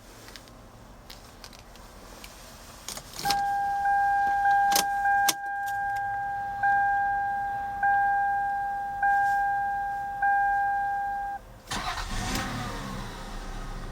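Keys clicking, then the Toyota Solara's electronic warning chime sounding repeatedly, about once a second, for around eight seconds. Near the end the chime stops and the 3.0-litre V6 cranks and starts, settling into a low idle.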